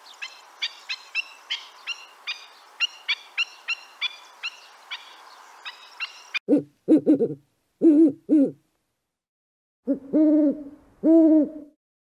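A run of quick high-pitched chirps, two or three a second, then an owl hooting. The hooting starts about six seconds in with a few short low hoots and ends with longer hoots that rise and fall.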